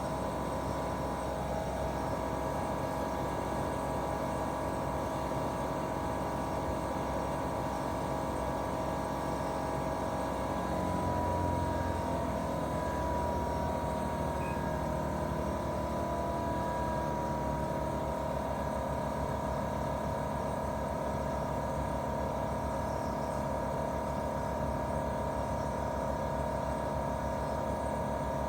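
Daikin R28RMV inverter outdoor unit with a twin-cylinder swing compressor, running in heating mode: a steady hum with a whine on top. About eleven seconds in, the whine rises slightly in pitch and the low hum briefly swells, then both hold steady again.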